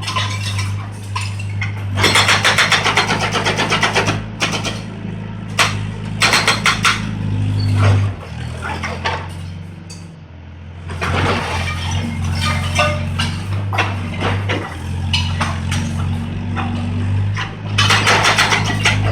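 Volvo 55 compact excavator's diesel engine running under load, with several bouts of rapid clattering and crashing as concrete and debris are broken up in demolition. The engine eases off briefly about halfway through.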